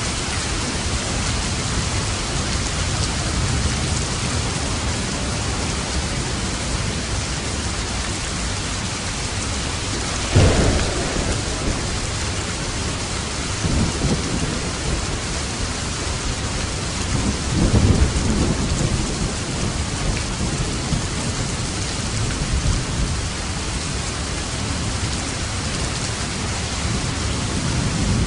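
Steady heavy rain with thunder: a sharp clap about ten seconds in, then rolling rumbles a few seconds later and again near the middle.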